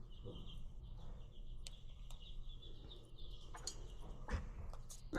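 Faint, steady high chirping of small birds, with a few soft clicks and a low knock about four seconds in.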